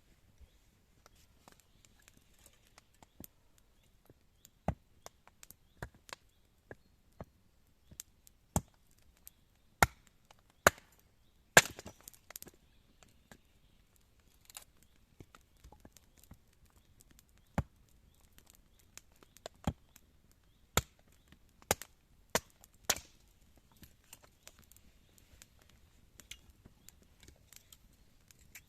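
Wood being chopped: a long series of sharp, irregular knocks, a second or so apart, with the hardest strikes bunched near the middle.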